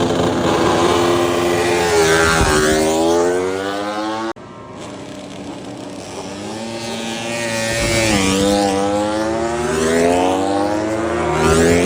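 MotoGP racing motorcycle engines at high revs, their pitch dipping at gear changes and climbing as the bikes accelerate. The sound cuts off abruptly about four seconds in, then another bike comes up, its revs rising again.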